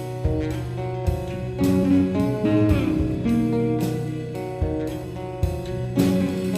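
Instrumental passage of a live rock trio: guitar and baritone guitar playing sustained notes over drums that strike about every second. One note bends downward about two and a half seconds in.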